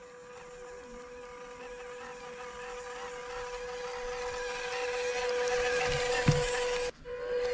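Radio-controlled car running with a steady high motor whine that grows gradually louder, with a brief low thump about six seconds in.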